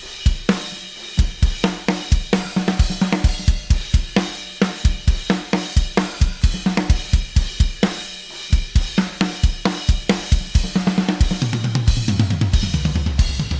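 Studio-recorded drum kit playing a fast groove: rapid bass drum strokes with snare hits and cymbals. A sustained low tone joins in near the end.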